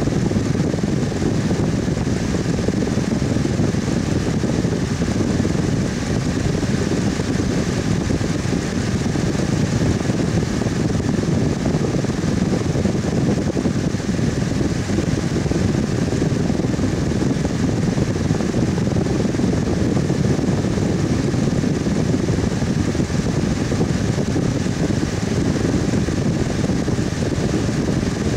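Electric fan running steadily, a constant whooshing hum of moving air with most of its weight low down.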